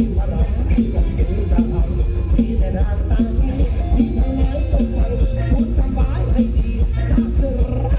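Mor lam band music with a steady, driving drum beat and electric instruments.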